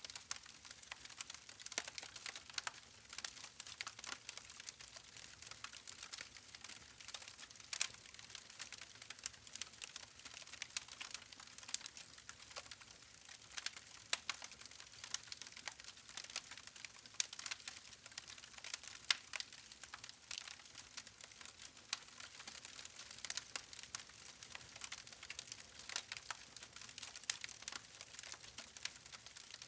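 Wood fire crackling: many small irregular pops and snaps from burning logs, with a few sharper cracks standing out.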